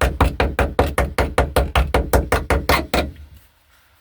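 A hand tool knocking rapidly and evenly on the car's floor pan, about seven strokes a second, which stop about three seconds in.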